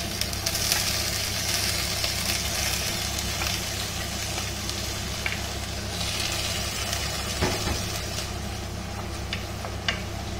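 Sweet corn and beans sizzling as they hit hot oil in a wok with browned onions. The sizzle is strongest for the first few seconds, then eases, and a few sharp clicks come in the second half.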